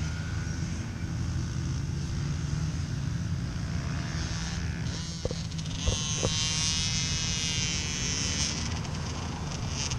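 Small dirt bike engine running with a steady buzzing drone, rising to a higher, louder buzz for a few seconds past the middle. A few short knocks sound about halfway through.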